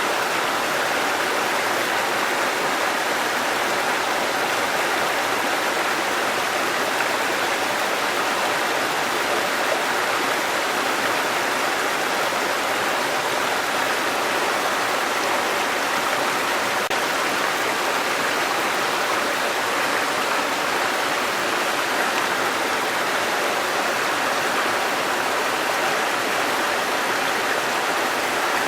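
Waterfall and running stream water rushing steadily.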